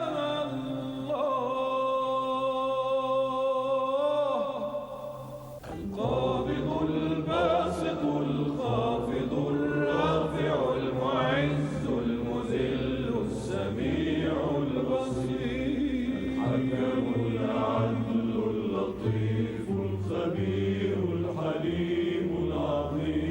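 Arabic devotional chanting: a long held sung note that fades out about five seconds in, then from about six seconds a new chanted passage with several voices.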